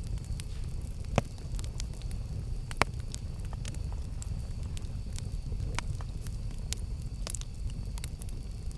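Campfire burning with a steady low rumble and frequent sharp crackles and pops, the loudest about a second in and near three seconds.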